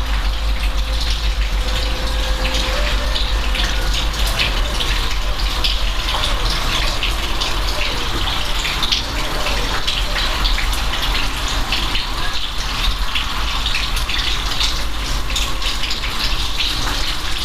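Steady rain falling, a continuous hiss of water with a dense patter of drops splashing.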